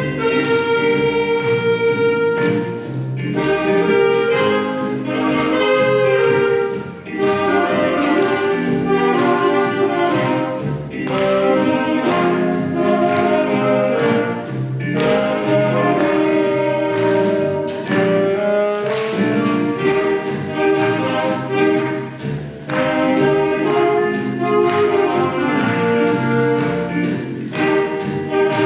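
Saxophone ensemble playing a slow melody in held notes over a steady beat.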